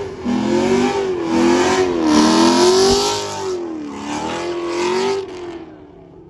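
A car engine revved hard several times, its pitch climbing and falling in quick swells, then fading away sharply about five seconds in.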